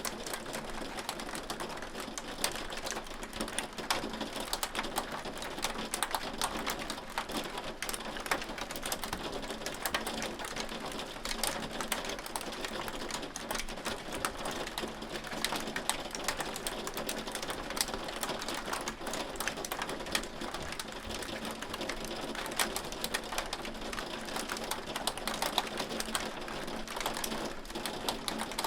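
Hail pelting a hard surface: a dense, steady patter of sharp clicks with no let-up.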